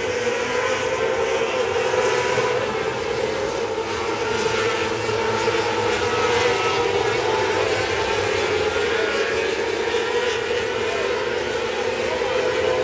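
Winged sprint car engine running hard at racing speed: a steady, loud drone whose pitch wavers slightly as the throttle is worked.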